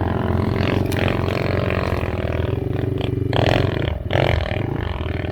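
Enduro dirt bike engine running at low revs, with a short rise in revs about three and a half seconds in.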